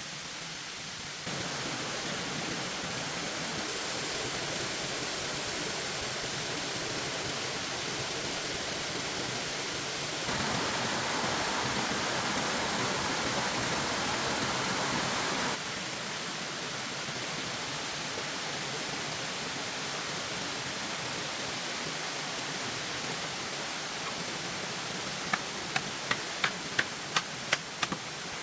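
Steady rushing water-like noise that jumps in level abruptly a few times, as between cut-together clips, with a quick run of about eight sharp knocks near the end.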